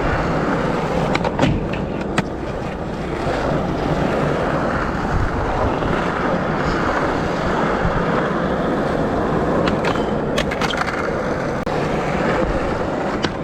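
Skateboard wheels rolling, a steady rumble, with a few sharp clacks from the board about a second in, around ten seconds in and near the end.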